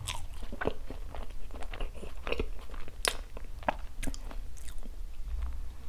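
Mouth chewing a bánh bao chỉ, a sticky glutinous-rice cake coated in dried coconut with a mung bean filling: irregular small clicks and smacks of chewing, one sharper than the rest about halfway.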